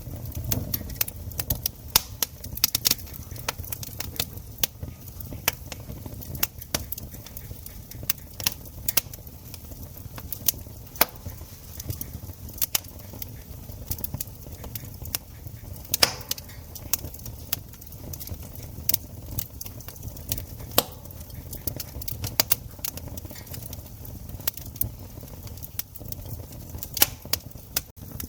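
Wood campfire crackling: irregular sharp pops and snaps over a low steady rumble, with one louder snap about halfway through.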